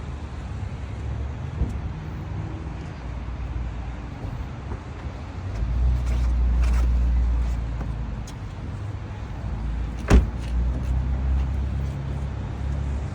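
Car driving, with a steady low engine and road rumble that grows louder for a couple of seconds midway. A single sharp thump comes about ten seconds in.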